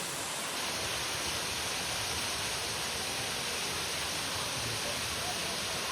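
Steady rushing of falling water, an even hiss-like roar with no breaks.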